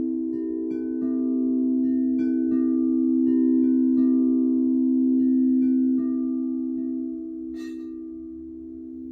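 Singing bowls ringing in a steady, layered drone, with light chime strikes scattered over it at irregular moments. There is a brief bright shimmer of chimes about seven and a half seconds in, and the strikes thin out after about six seconds.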